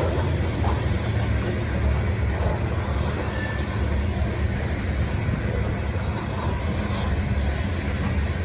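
A freight train passing: a steady low diesel locomotive rumble over continuous rail car noise.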